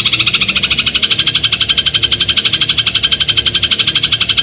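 Eurasian tree sparrow (burung gereja) giving a long, very fast rattling trill, over a dozen evenly spaced notes a second, held at a steady pitch without a break.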